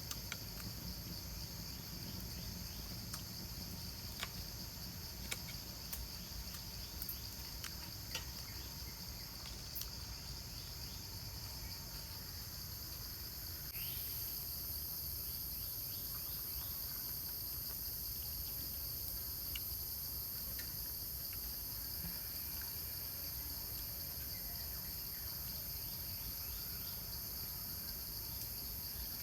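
Steady chorus of insects chirring in the forest. Scattered faint clicks sound in the first half, and the highest layer of the chorus grows louder about halfway through.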